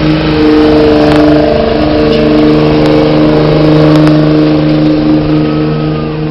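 Pulling truck's diesel engine running flat out under heavy load, dragging the weight sled down the track, its pitch held high and nearly steady with small rises and dips.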